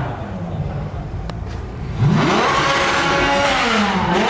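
A car engine being revved: a lower running note for about two seconds, then the revs climb sharply and hold high and loud before easing down near the end.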